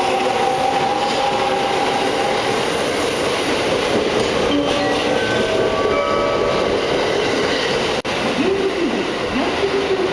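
Shirasagi and former Hakutaka limited express electric train cars rolling slowly past a platform close by: a steady loud rolling noise with a few brief squealing tones from the wheels in the middle. The train sound breaks off abruptly about eight seconds in.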